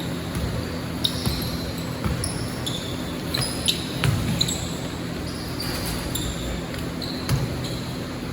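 Basketball game on an indoor court: sneakers squeaking sharply on the floor many times as players move, with a basketball bouncing, the louder thuds about four and seven seconds in.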